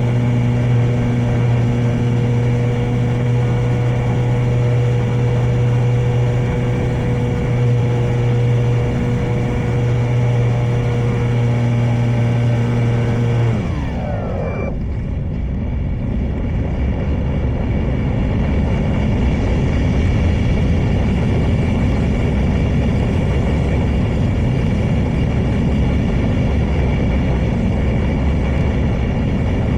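E-flite Draco RC plane's electric motor and propeller running at a steady throttle, then winding down in a falling whine about fourteen seconds in. After that, wind rumbles on the microphone.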